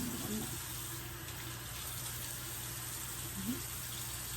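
Steady, even hiss over a low hum, with two faint short pitched sounds near the start and about three and a half seconds in.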